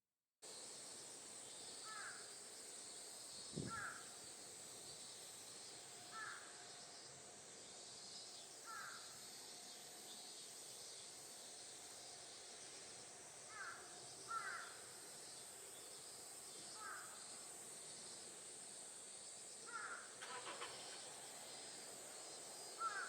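Crows cawing, single caws every few seconds, over a steady high insect drone.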